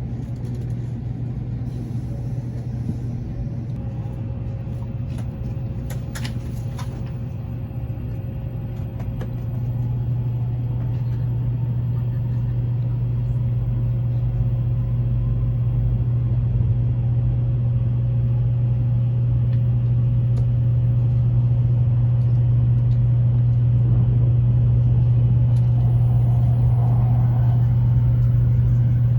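Train running: a steady low drone that gets louder from about ten seconds in and keeps building slowly.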